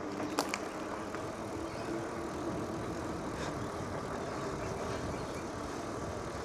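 Steady road and wind noise of a bicycle ride, with one sharp click about half a second in.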